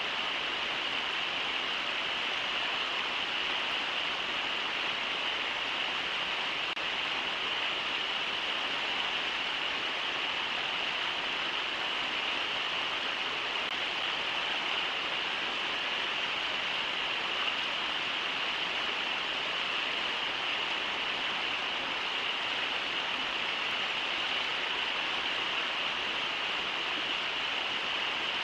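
Brooks River rushing over shallow riffles: a steady, unbroken hiss of moving water.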